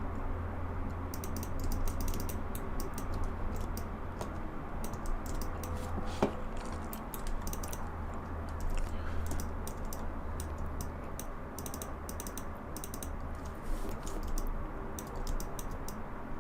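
Computer keyboard keys clicking in quick, irregular runs as shortcuts are typed, with one sharper click about six seconds in, over a steady low hum.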